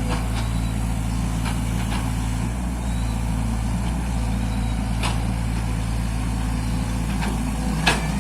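Mini excavator engine running steadily, with a few scattered sharp clanks; the loudest comes near the end.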